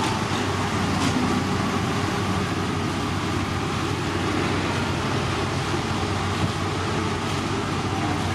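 Heavy road-construction machinery with its engine running steadily under a constant low hum.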